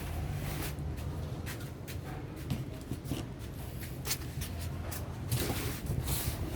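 Packaging being handled: scattered rustles and light clicks of box and wrapping, over a steady low hum.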